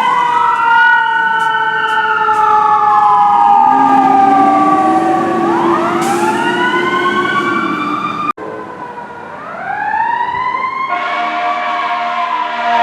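Fire apparatus sirens wailing, several overlapping tones rising and falling. The sound cuts off abruptly about eight seconds in, then another siren winds up, and a steady horn blast joins it near the end.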